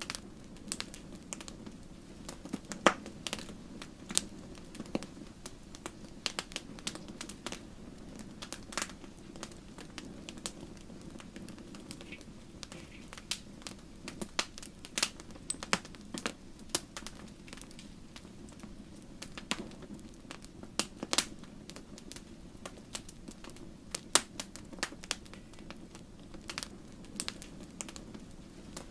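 Wood fire burning in a fireplace: logs crackling with irregular snaps and pops over a steady low rustle of flame, a few pops much louder than the rest, such as one about three seconds in and another about three-quarters of the way through.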